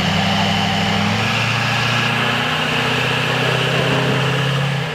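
Diesel engine of a Chevy-powered mega mud truck running steadily, its pitch shifting slightly a couple of times, then dropping off at the end.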